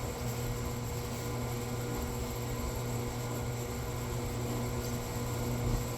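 A steady electrical or machine hum with a constant hiss behind it, unchanging throughout.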